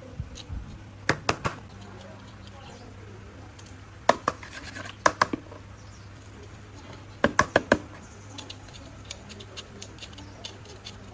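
Sharp metallic clicks and taps of hand tools on engine parts, in three quick groups: about a second in, around four to five seconds in, and about seven seconds in. A low steady hum runs underneath.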